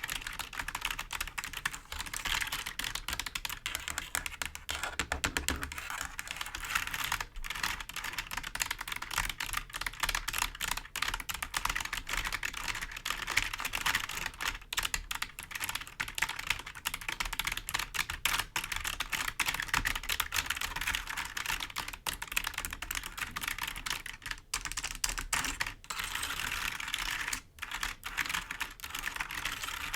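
Fingers tapping and scratching on a computer keyboard's keys: a continuous, rapid clatter of light clicks.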